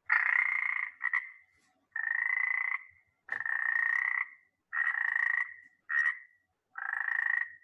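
A frog croaking, as a recorded sound effect: seven croaks at about one a second, most of them long and a couple short, each holding an even pitch.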